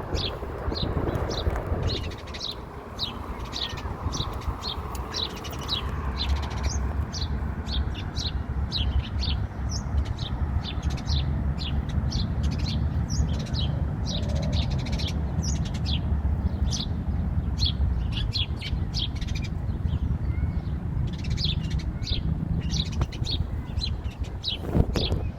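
Small birds chirping: short high chirps repeated two or three times a second, over a steady low rumble.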